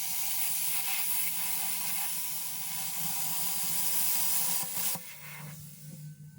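A steady, loud hiss with a faint hum beneath it, cutting off suddenly about five seconds in.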